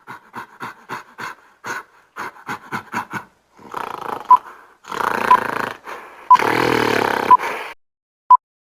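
Recorded gorilla sounds: a quick run of short sharp pulses, then two longer rough grunting roars. Short quiz-timer beeps sound about once a second over the second half.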